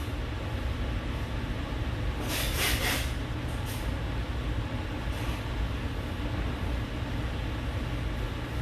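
Paintbrush strokes on canvas: a few short scratchy swishes about two to three seconds in, and fainter ones shortly after, over a steady low rumble of background noise.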